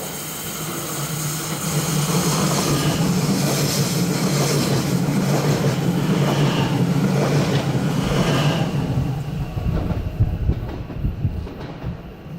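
Train passing close by. A steady low hum builds and holds for several seconds, then gives way to wheels clacking over rail joints as the sound fades away.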